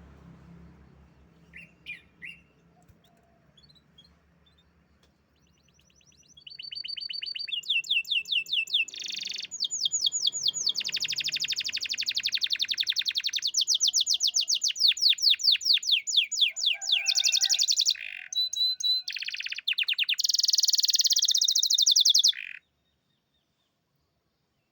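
Canary singing: a few soft chirps, then, from about six seconds in, a long loud song of rapid trills and fast repeated high notes, which cuts off suddenly near the end.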